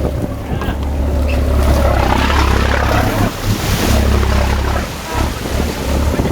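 Wind buffeting the microphone on a fishing boat at sea, over a deep steady rumble that drops out briefly a few times, with water washing and hissing alongside, swelling about two to four seconds in.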